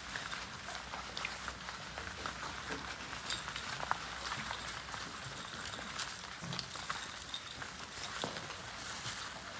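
French Bulldog puppies moving about: a busy, steady patter of small clicks and scuffles from many paws and claws, with a few short squeaks.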